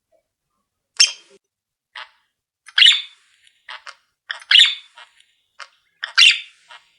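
Small caged pet birds giving short, scratchy calls: a dozen or so brief bursts at irregular intervals, with silent gaps between them.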